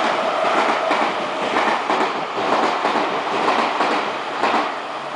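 Meitetsu electric train passing, with dense running noise and repeated wheel clacks over rail joints. The noise begins to fade near the end as it moves away.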